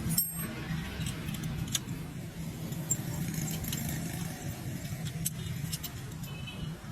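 Motorcycle engine idling through its silencer, a steady low beat, with light metallic clinks over it.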